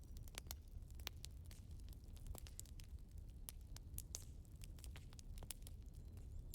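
Burning firewood crackling: irregular sharp pops and snaps over a low steady rumble.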